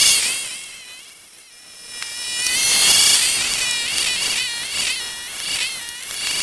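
Old MTD snowblower running under load through deep drifted snow: a high, wavering whine that dips and recovers in pitch as the machine bogs into the snow, over a hiss of snow being churned and thrown. The sound swells loudest about three seconds in, then eases.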